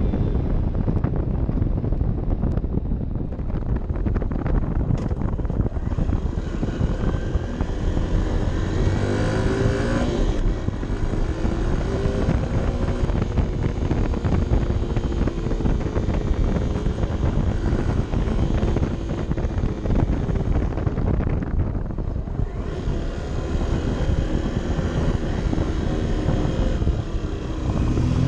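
Honda CB 125 F's small single-cylinder engine pulling a motorcycle uphill, its revs rising and falling several times through the gears. Heavy wind rumble on the helmet or bike camera's microphone runs underneath.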